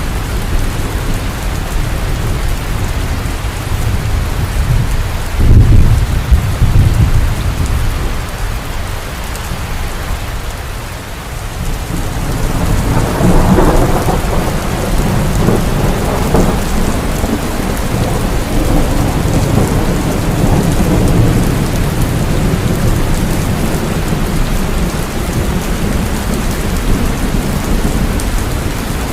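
Heavy rain falling steadily, with rolls of thunder: a loud low rumble about five seconds in and a second, broader rumble starting about twelve seconds in that fades back into the rain.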